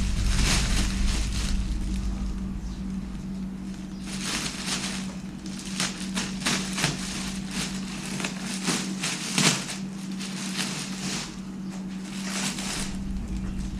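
Packing material crackling and rustling in irregular bursts as the jointer is unpacked from its box, over a steady low hum.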